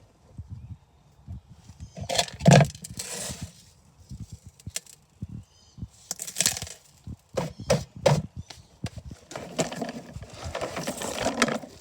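Irregular knocks, clicks and clatter, with short scraping or rustling bursts; the loudest knock comes about two and a half seconds in.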